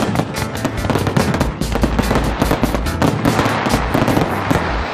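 Aerial fireworks shells bursting in rapid succession: a dense, continuous run of bangs and crackling, several reports a second.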